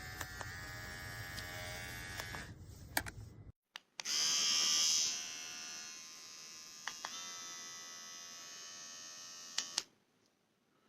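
A small electric pet hair trimmer running with a steady buzz. It breaks off briefly about three and a half seconds in, comes back louder for about a second, then buzzes steadily until it stops with a click near the end.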